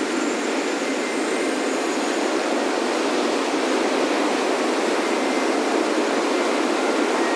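Ocean surf washing steadily onto a beach, a continuous rushing noise with no single wave standing out. Faint high wind chimes ring through it.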